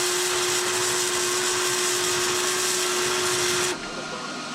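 Welding arc on a steel dozer blade running as a steady crackling hiss with a steady hum beneath it, stopping abruptly near the end as the weld pass is broken off.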